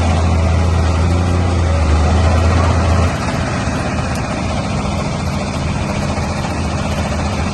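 Crawler bulldozer's diesel engine running steadily with a strong low drone that drops off suddenly about three seconds in, leaving a lighter, steady engine sound.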